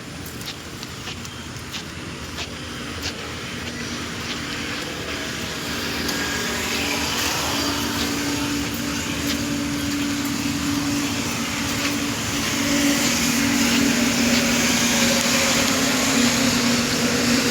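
A motor running with a steady low drone and a wash of noise, growing gradually louder. A few sharp clicks in the first few seconds.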